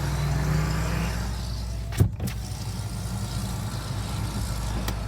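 Hyundai i20N electric window motor running with a steady whine that stops about a second in, then a sharp knock about two seconds in, over a low steady hum.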